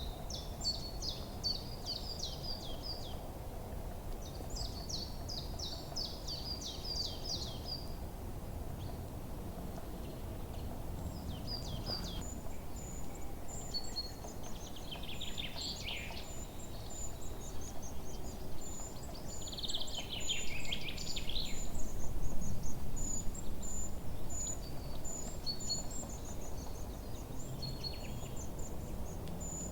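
Forest birds singing: two quick trills of rapid, sharply falling notes in the first eight seconds, then a long run of very high, thin repeated notes with other calls mixed in. Under it runs a steady low background rumble that swells for a few seconds about two-thirds of the way through.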